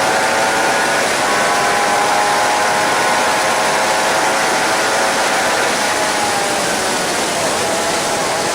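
Suzuki GSX-R 750 inline-four engine running at high revs on track, heard over heavy wind rush. The engine note holds mostly steady, dipping briefly about a second in and easing slightly lower near the end.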